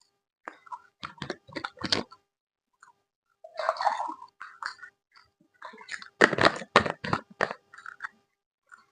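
Close-miked chewing of food, with crisp crunches coming in two quick runs, about a second in and again near the end.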